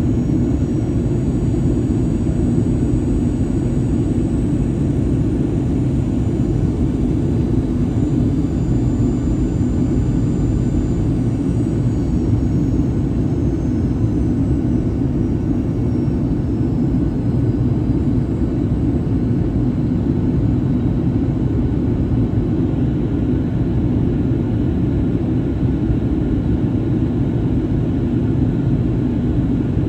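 Steady cabin rumble of a Boeing 737-800 in flight: the drone of its CFM56 turbofan engines and the airflow around the fuselage. Faint high whining tones slide down in pitch about halfway through.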